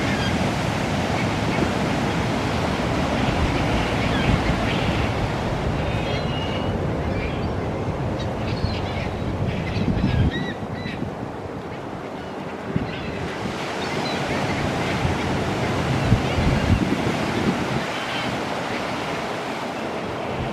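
A flock of seagulls bathing: a steady rush of splashing water with short, scattered gull calls over it. Wind buffets the microphone with low rumbles about halfway through and again later.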